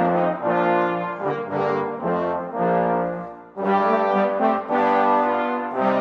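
Brass ensemble playing sustained chords in phrases, with a brief break about three and a half seconds in.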